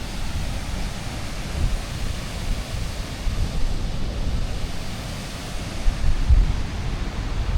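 Steady rush of a waterfall, with wind buffeting the microphone in irregular low gusts that grow stronger near the end.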